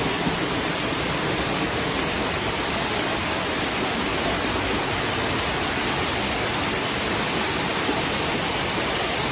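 Steady rush of water cascading over the rocks of Dunn's River Falls, a constant hiss with no breaks.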